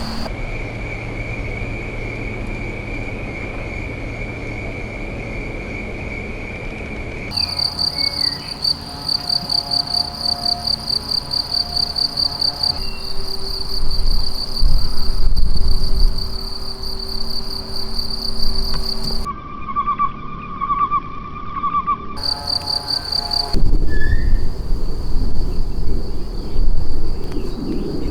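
Insects chirping in a steady high trill that pulses at about three beats a second in places, changing abruptly several times. Low rustling and thudding run underneath, loudest about halfway through and again near the end.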